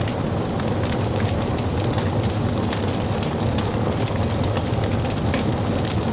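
Wood fire crackling, with many sharp, irregular pops over a steady low rush of burning.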